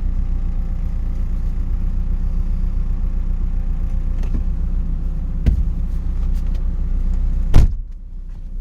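Car engine idling steadily. A few light clicks, then a loud knock about seven and a half seconds in, after which the sound is quieter.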